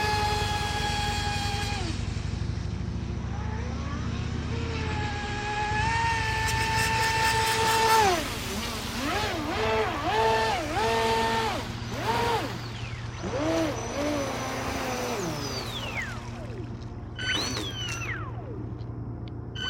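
The ADS500M water-cooled motor of an HK Pursuit RC boat whines, its pitch rising and falling with the throttle. It holds one long run, then gives a string of short throttle blips, a long falling glide and more quick blips near the end.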